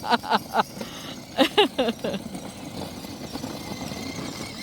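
Electric drive motors and gearboxes of a 12V kids' ride-on truck running, a steady whine with a thin high tone that is clearest in the second half.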